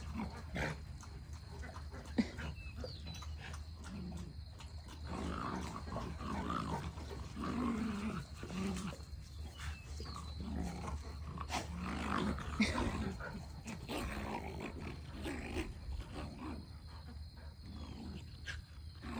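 Dogs play-wrestling: on and off low play growls and grunts with scuffling, and a sharp knock about two seconds in.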